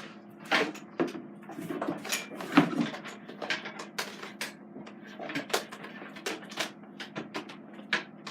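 Irregular clicks and knocks of objects being handled and set down, several each second and loudest about two and a half seconds in, over a faint steady hum.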